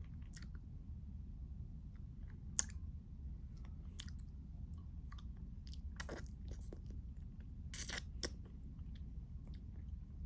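Close-up mouth sounds of chewing a chocolate-coated ice cream bar, with scattered crisp crunches and wet clicks; the loudest crunches come about six and eight seconds in. A steady low hum runs underneath.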